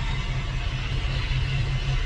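Steady car engine and road noise with music playing over it.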